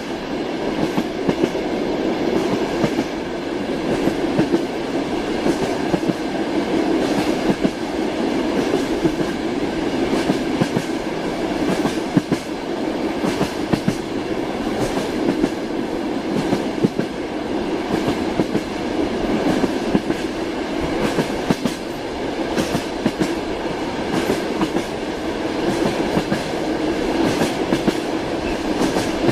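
Train wheels clattering over rail joints in a steady run: a constant rumble with frequent sharp clicks.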